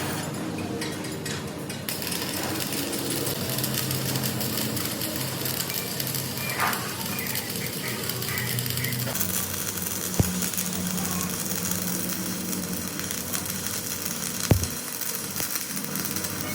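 Workshop machinery running steadily, with a low hum, and two sharp knocks, about ten and fourteen seconds in.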